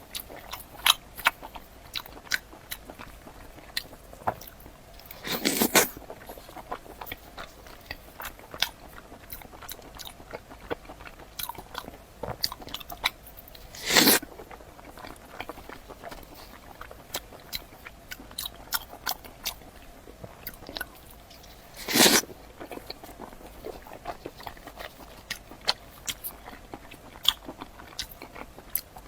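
Close-miked chewing and crunching of chicken skin skewers: a steady run of small crisp crackles, with three louder, longer crunching bites about eight seconds apart.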